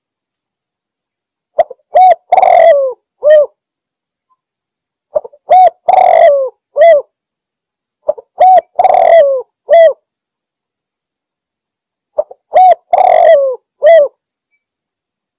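Spotted dove (tekukur) cooing: four phrases, each a couple of quick short coos, a longer coo and a falling final note, repeated about every three and a half seconds with gaps of silence between.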